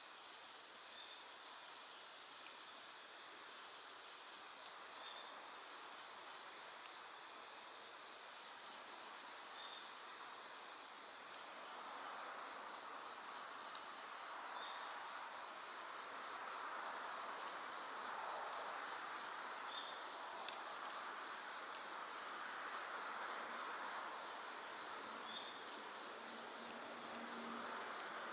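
Steady high-pitched trilling of night insects, with a couple of faint crackles from a wood campfire.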